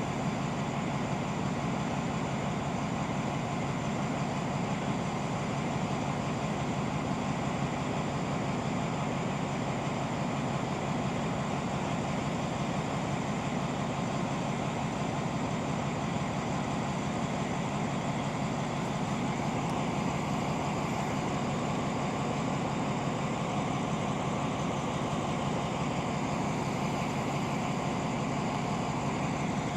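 Diesel engine of a train standing at a station platform, idling with a steady, unchanging hum.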